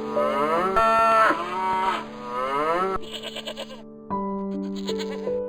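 Cow mooing in long calls that bend in pitch, over background music. About three seconds in, the mooing gives way to a short, pulsing bleat.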